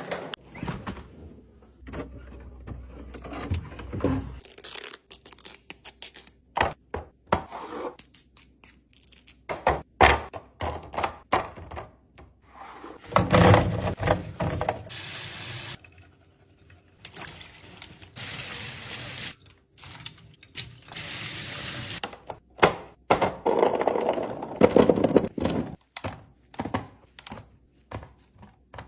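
Containers, bottles and food items being set down and slid into place while a fridge is restocked: repeated knocks and thunks, with several longer stretches of scraping.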